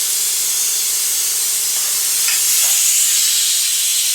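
Pneumatic vacuum brake bleeder hissing steadily as compressed air rushes through its venturi, drawing brake fluid and air out through the open bleeder valve of the front brake. The hiss grows a little louder about two seconds in.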